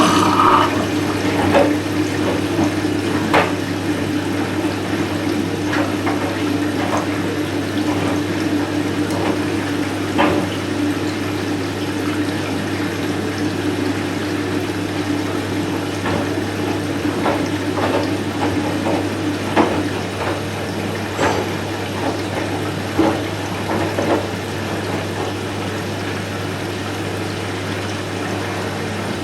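Front-loading washing machine (Candy Smart Inverter CSS4) taking in water: water rushes in over a steady low hum, with scattered small ticks and splashes.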